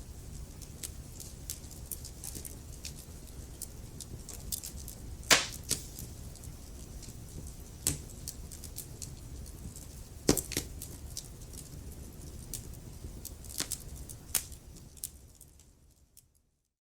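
Wood fire crackling over a low steady rumble, with many small sharp crackles and two loud pops about five and ten seconds in. The sound fades out near the end.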